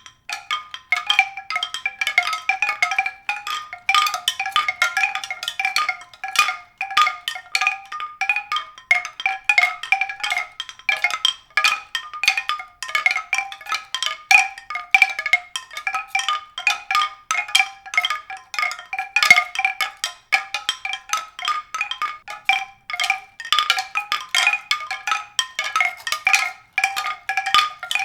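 Tuned struck percussion: a quick, continuous stream of bright, ringing notes that keep coming back to the same few pitches, several strikes a second.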